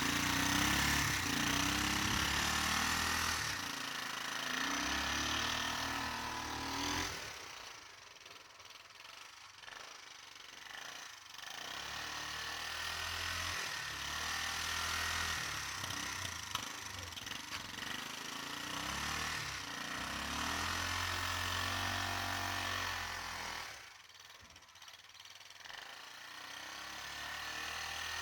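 ATV (4-wheeler) engine running, its speed rising and falling, dropping back to a quiet low level twice.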